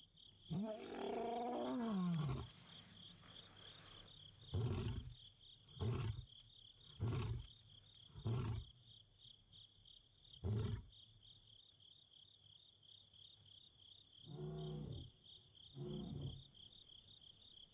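Male lion roaring: a long moaning call falling in pitch, then a run of short, deep grunts about a second apart, then two more moaning calls near the end. It is a lion's long-distance contact call to a companion.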